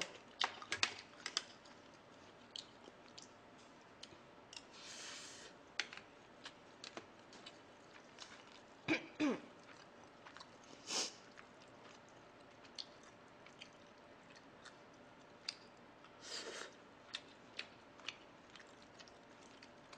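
A person chewing food close to the microphone, with wet mouth sounds and many small scattered clicks of chopsticks picking at pork bones on a metal tray, and a few short, louder noises.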